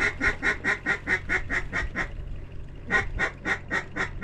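Hand-blown mallard duck call working a single duck: rapid, evenly spaced quacking notes, about seven or eight a second, in a run of about two seconds, a short pause, then another run starting about three seconds in.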